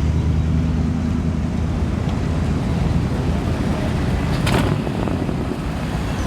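Low, steady rumble of a car engine, with one brief sharp click about four and a half seconds in.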